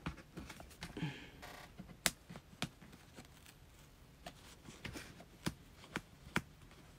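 Hands handling tools and materials on a worktable: scattered light taps and clicks, with a short scratchy rustle about a second in.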